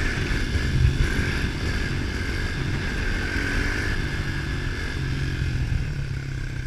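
110 cc pit bike's single-cylinder four-stroke engine running at fairly steady, low revs while being ridden.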